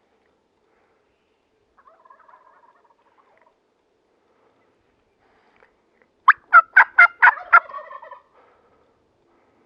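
Wild turkey gobbler gobbling close by: one loud, rapid rattling gobble of about six quick notes, about six seconds in. A faint short call comes about two seconds in.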